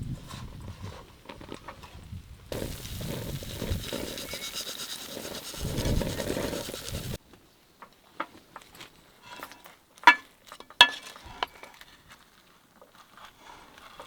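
Wind buffeting the microphone with a low rumble, cut off abruptly about seven seconds in, then a scatter of light clinks and taps of utensils against camp cookware, the loudest two a little under a second apart.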